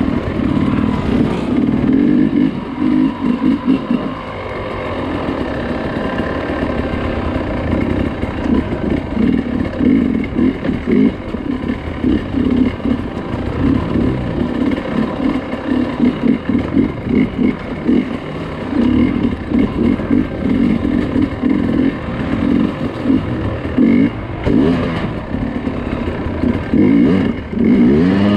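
Dirt bike engine being ridden off-road, the throttle opening and closing in quick, uneven bursts so the engine revs up and drops back again and again.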